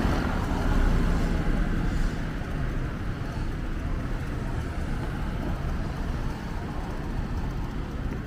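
City road traffic: a steady rumble of cars on the street, louder for the first two seconds as a vehicle passes close, then an even traffic hum.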